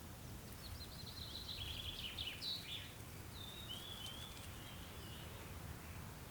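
A songbird sings a short phrase of quick, high trilled notes, then a brief whistled phrase, over a steady low background rumble.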